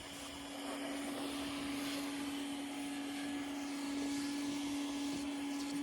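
Steady whirring drone of a small motor with a constant hum, cutting in suddenly and holding an even level throughout.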